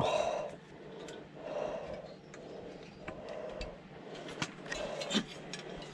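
Scattered light clicks and taps of parts being handled and worked loose during a teardown.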